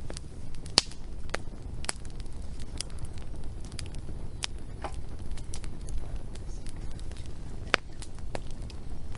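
Wood fire crackling, with irregular sharp pops over a low steady rumble; the loudest pops come about a second in and near the end.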